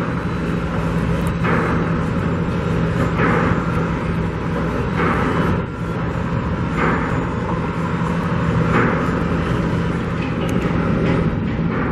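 Steady low engine hum of machinery or traffic, with a hissing, grinding-like swell recurring about every two seconds.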